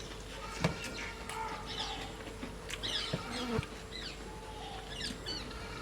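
Small birds chirping, with many short, quick notes that rise and fall in pitch. A few sharp knocks and a faint steady hum run beneath them.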